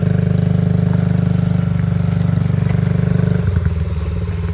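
Motorcycle engine running with an even, pulsing beat. It eases off about three and a half seconds in, then picks back up.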